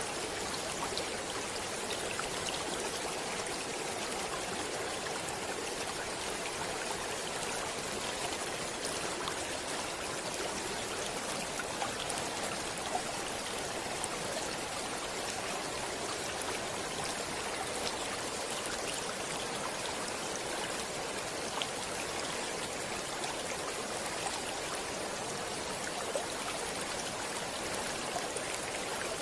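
A stream of running water flowing steadily in an even rush, with faint small splashes ticking now and then.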